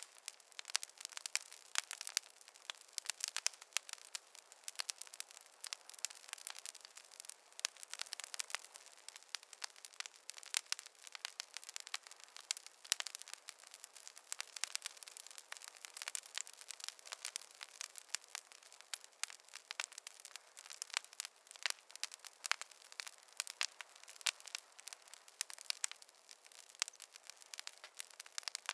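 Burning logs in a fireplace crackling, with dense irregular snaps and pops.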